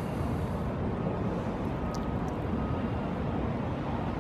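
Steady low outdoor rumble of background noise, with a faint brief tone about two seconds in.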